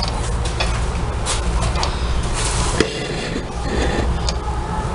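Whirlpool top-load washer transmission running in spin with a steady low hum, a rubbing noise and scattered clicks. This is the sound of the pinion rubbing on the wash shaft's splines: worn plastic cams on the wash shaft don't lift the pinion far enough, the typical transmission fault.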